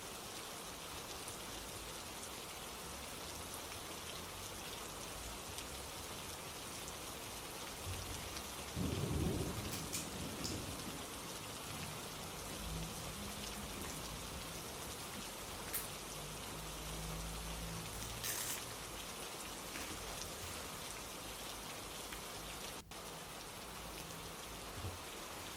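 Steady rain with low rolls of thunder: the loudest rumble comes about nine seconds in, followed by quieter rumbling for several seconds.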